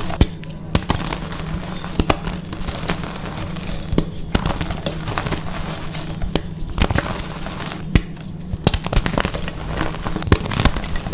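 Blocks of dyed gym chalk being crushed, crunching and crumbling with many irregular sharp cracks, over a steady low hum.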